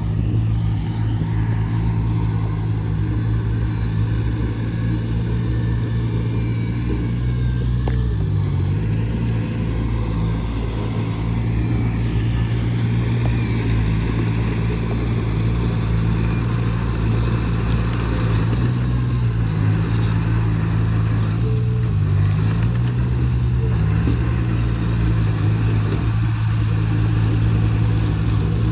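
Heavy earthmoving machine's diesel engine running steadily under work, its note dipping briefly twice.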